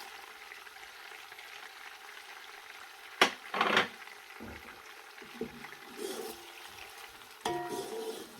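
Chopped onions sizzling in melted butter in a pot, with a sharp knock about three seconds in and a brief louder stir just after it.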